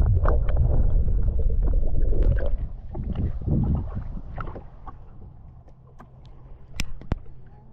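Water sloshing and gurgling over a low, steady hum, most likely a jet ski's engine idling. The sound fades after about two and a half seconds, leaving a few sharp clicks near the end.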